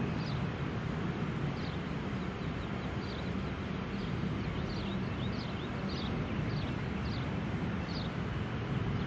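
A bird chirping repeatedly, short high notes about one a second, over a steady low rumble of outdoor noise.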